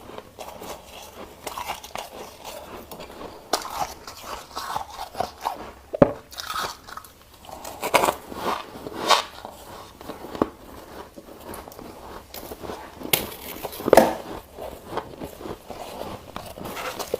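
Ice being bitten and chewed close to the microphone: irregular sharp cracks and crunches, with the loudest bites about six seconds in and near fourteen seconds.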